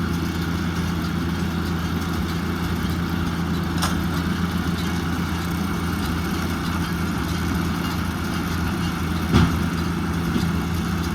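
Tractor engine running steadily at a constant speed, with a single sharp knock about nine seconds in.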